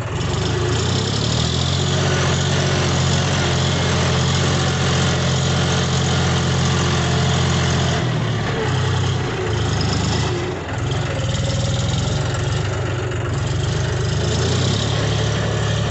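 John Deere 5050D tractor's diesel engine running at a steady idle, its note unsettling and shifting about halfway through before steadying again.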